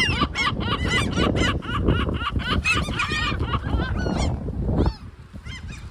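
Great black-backed gulls calling, a rapid run of short rising-and-falling cries about four a second, over the rumble of strong wind on the microphone. Calls and wind both drop away about five seconds in.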